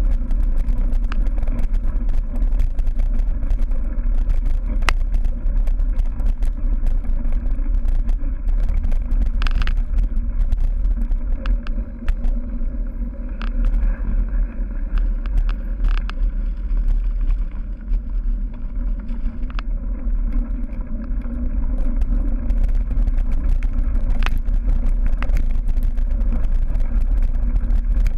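Wind buffeting the microphone of a camera carried on a cyclocross bike ridden at speed, a heavy steady rumble, with scattered sharp knocks and rattles from the bike over rough ground. The rush eases for several seconds in the middle.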